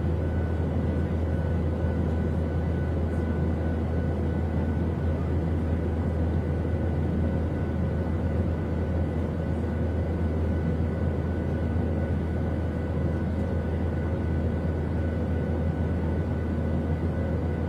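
Steady drone of an airliner cabin in flight: engine and airflow noise with a strong low rumble and a few faint, steady humming tones above it.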